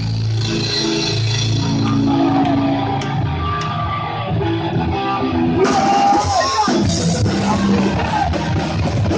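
Live punk hardcore band playing loudly: electric guitars, bass and drums. The sound gets fuller and brighter a little over halfway through.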